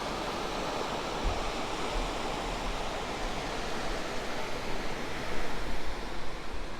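Steady rushing noise of flowing water, with irregular low rumbles of wind on the microphone.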